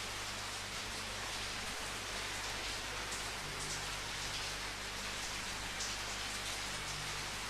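Steady rain falling, a constant hiss with faint scattered drop taps.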